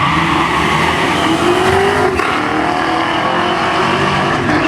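Two drag cars, a Fox-body Mustang and a Camaro, accelerating hard down the strip at full throttle. The engine note climbs, drops at a gear shift about two seconds in, then climbs again.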